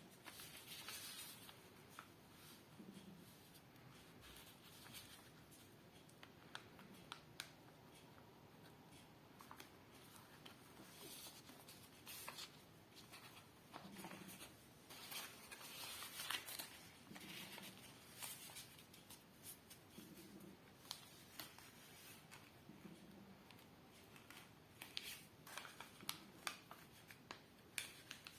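Faint rustling and crinkling of a sheet of paper being folded by hand, with soft scattered taps and brief rubbing sounds as creases are pressed.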